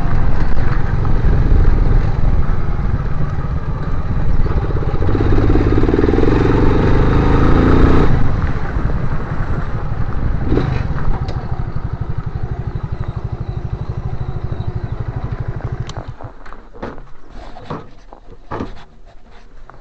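Motorcycle engine running loud, stronger for a few seconds before dying away steadily over the next several seconds. Scattered short clicks and knocks follow near the end.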